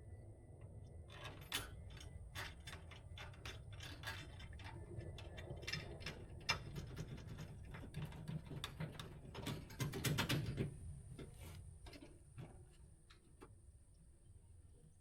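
Scattered light clicks and rattles of metal hardware and tools being handled, busiest about ten seconds in, then thinning out.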